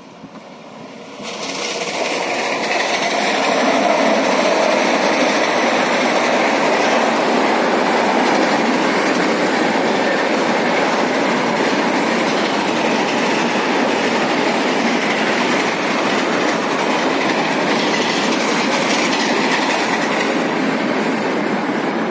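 A train running past close by: it comes up loud quickly about a second in and then runs on steadily.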